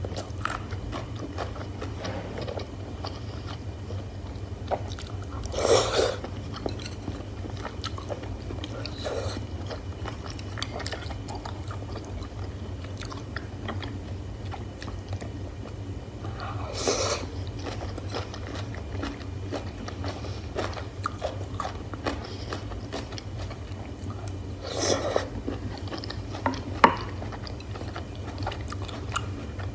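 Close-miked chewing and biting of hotpot beef and mushrooms, with small wet mouth clicks throughout and three louder bites or slurps spread across the stretch.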